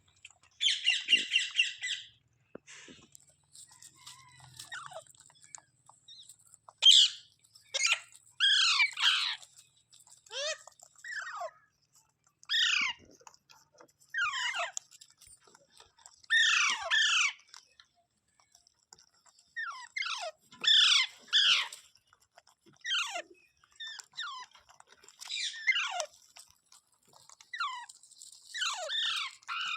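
Pet green parrot calling: a quick rattling trill about a second in, then a string of short, downward-sliding squawks every second or two.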